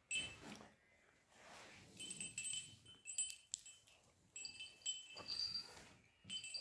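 Small metal bells jingling and ringing in short spells, several high tones at once.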